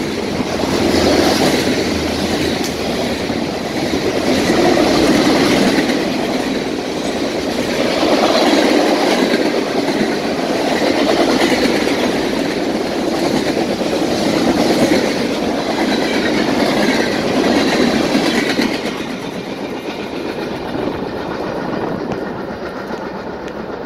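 Freight cars (boxcars, lumber-loaded centerbeam flatcars and covered hoppers) rolling past: a steady rumble and rattle of steel wheels on the rails that swells and eases every few seconds. It drops off about nineteen seconds in as the end of the train goes by, leaving a fainter rumble that fades away.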